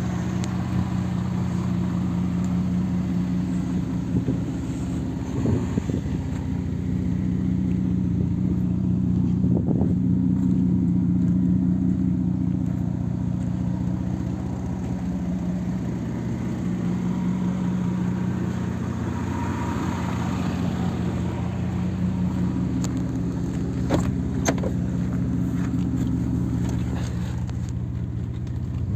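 1996 Mercedes-Benz E 320's 3.2-litre inline-six engine idling steadily, with a couple of short clicks about three-quarters of the way through.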